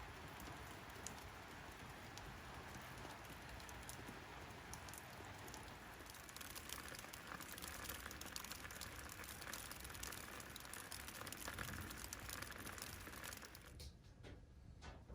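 Steady rain pattering, which gives way near the end to a much quieter background with a few faint clicks.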